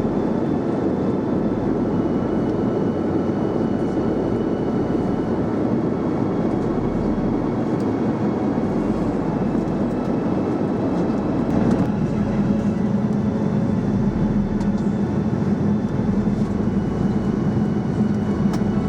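Steady in-flight cabin noise of a Boeing 787-9 airliner: the even rush of air and engines. A low hum in it grows a little stronger about twelve seconds in.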